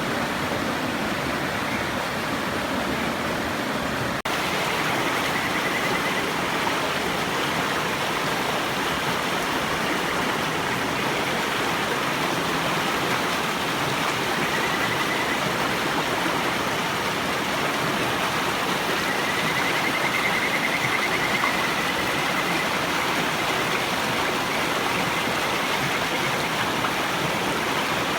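River water rushing steadily over stones. Faint trilling calls of Kajika frogs (Buergeria buergeri) rise above it a few times, the longest about two-thirds of the way through.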